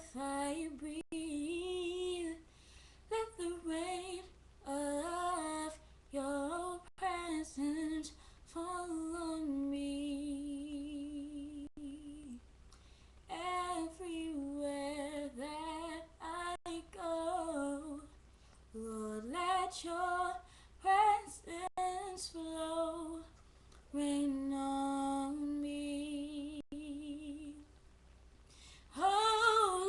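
A woman singing a slow gospel song unaccompanied, in phrases with several long held notes.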